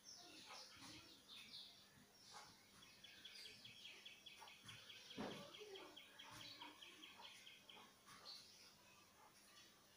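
Faint birdsong: scattered chirps and a fast trill of repeated high notes that runs for several seconds from about three seconds in. A soft knock about halfway through.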